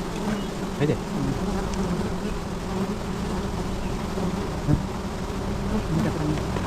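A mass of honeybees buzzing around a disturbed wild colony during honey collection, a dense steady drone with individual bees' pitch wavering as they fly past. A couple of short knocks stand out, one about a second in and one near the end.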